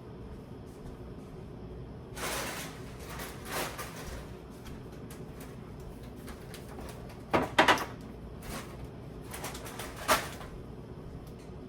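Groceries being handled while the fridge is restocked: a couple of rustles, then a quick cluster of sharp knocks about seven and a half seconds in, the loudest, and a single knock near the end.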